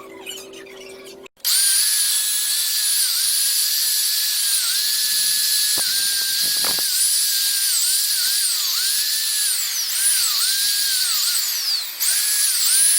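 High-speed electric power tool, such as a buffer or polisher, whining loudly as it buffs a metal exhaust pipe. It starts suddenly about a second in, and its pitch dips briefly again and again as it is pressed into the work.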